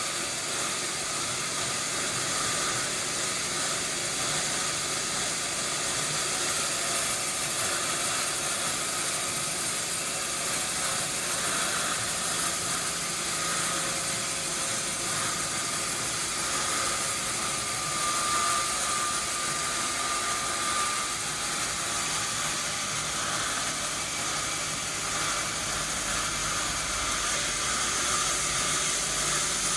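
Sawmill machinery running steadily: a continuous hiss with a faint thin whine in the middle.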